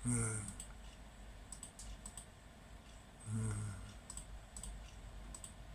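Scattered clicks from a computer mouse and keyboard while drawing on a computer. A man gives two short low hums, one at the start and one about three seconds in.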